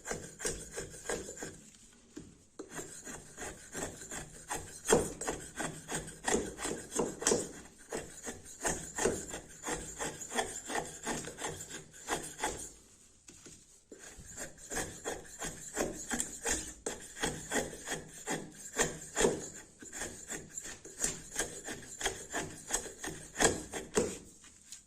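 Fixed-blade knife scraping and shaving wood in quick repeated strokes, a few a second, with short pauses about two seconds in and again near the middle.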